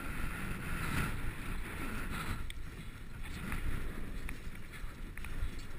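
Wind buffeting a moving camera's microphone over the steady rumble of a bicycle rolling along pavement, with a few light clicks in the second half.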